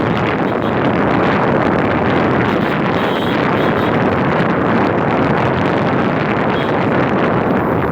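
Steady rushing noise of a moving bus in city traffic, with wind buffeting the microphone.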